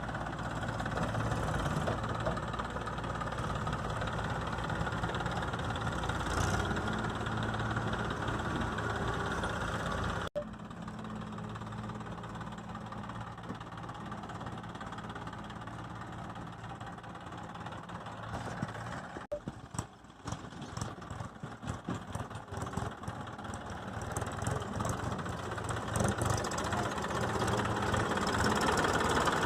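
Massey Ferguson tractor engine running at a steady idle, in three stretches joined by abrupt cuts about a third and two-thirds of the way through; the level goes choppy after the second cut and the engine grows louder near the end.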